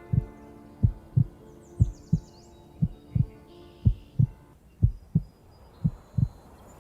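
Heartbeat sound effect: a low double thump, lub-dub, about once a second, over a steady low hum that stops about two-thirds of the way through. Faint high chirps sound about two seconds in.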